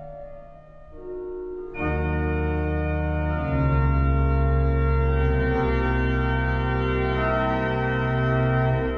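Organ playing sustained chords. It starts soft, then about two seconds in a full chord enters with deep bass. It swells louder a second or so later and holds, dropping back right at the end.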